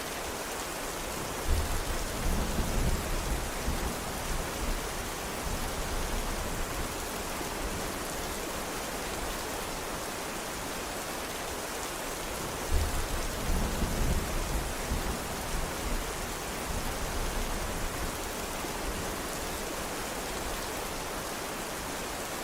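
Steady heavy rain falling, with two low rolls of thunder: one about a second and a half in and another about thirteen seconds in, each rumbling for a few seconds.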